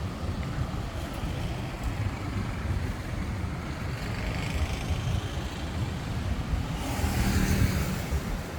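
Road traffic: a steady low rumble of engines, with one vehicle passing close and louder near the end.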